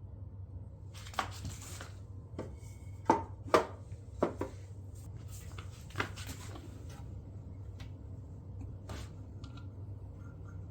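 Hand handling of a DeWalt miter saw: a series of sharp clicks and knocks of its parts, the loudest three close together in the middle, over a low steady hum; the saw's motor is not running.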